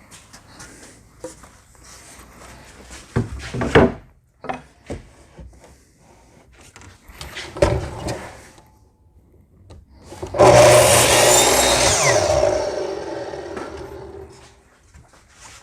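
Knocks and rubbing from handling cedar tongue-and-groove boards, then about ten seconds in a power saw starts, cuts through a board and winds down, fading out over about four seconds.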